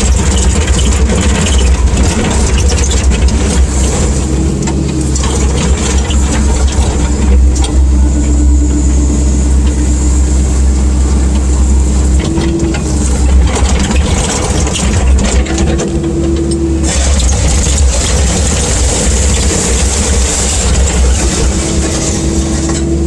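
Caterpillar 305.5 mini excavator's diesel engine running steadily as the machine travels in high speed.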